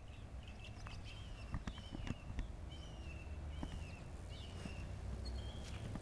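Outdoor ambience of a bird giving short, repeated chirps over a low, steady rumble.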